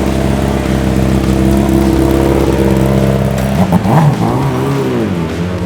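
Inline-four BMW racing superbike engine running at high, steady revs. About three and a half seconds in, the engine note dips, then swings up and down again.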